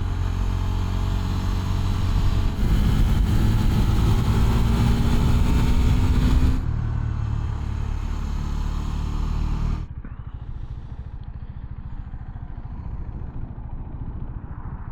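KTM Duke motorcycle accelerating hard, its engine note climbing steadily for a few seconds, then dropping suddenly as it shifts and pulls on. About ten seconds in the throttle closes and the engine falls back to a quieter, steady run.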